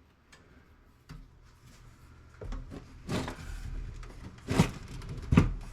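Desktop computer case being taken apart by hand: scattered clicks and knocks of the case and its parts, the loudest about four and a half and five and a half seconds in.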